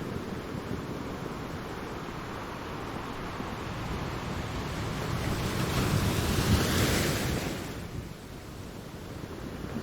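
Ocean waves on a shore: a steady low rumble of surf, with one wave building from about four seconds in, breaking in a loud hiss of wash near seven seconds, then falling away.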